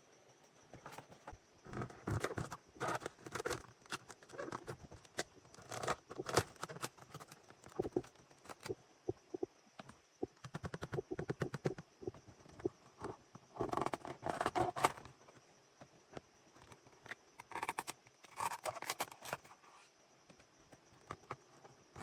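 Irregular clusters of clicks, scrapes and knocks from hand work, with quiet gaps between, over a faint steady high-pitched tone.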